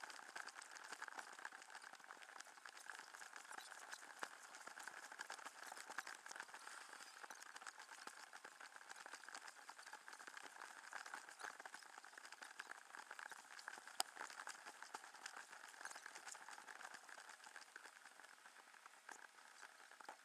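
Faint lapping and trickling water, a steady crackle of tiny drips and small splashes, with one sharper tick about two-thirds of the way through.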